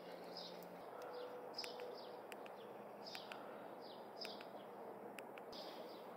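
Faint outdoor background of small birds chirping, with short falling chirps coming over and over at irregular intervals. A few faint clicks are heard among them.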